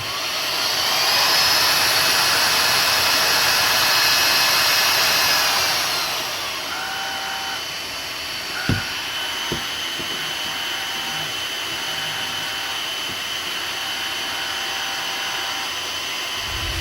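Sharp RACTIVE Air EC-AR2S cordless stick vacuum running. Its motor whines up to speed and runs steadily, then drops to a lower, quieter level about six seconds in. Two short clicks come near the middle.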